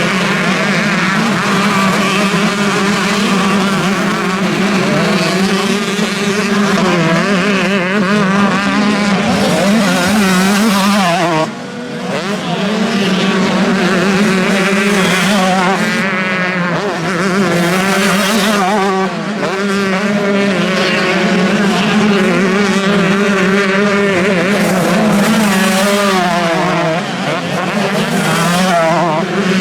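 Several motocross bikes' engines running hard at once, their pitch rising and falling as the riders rev through the gears. There is a short drop in loudness about eleven seconds in.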